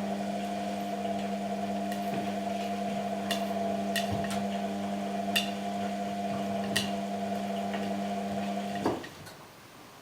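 Washing machine running with a steady motor hum that cuts off suddenly about nine seconds in, with a few light clicks over it.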